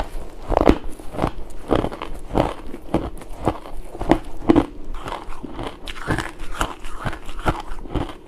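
Pink ice being chewed close to the microphone: a steady run of sharp crunches, about two a second.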